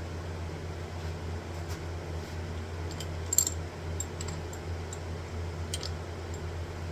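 Sieg X2 benchtop mini mill's motor running with a steady hum, with a few light sharp ticks, the loudest about three and a half seconds in.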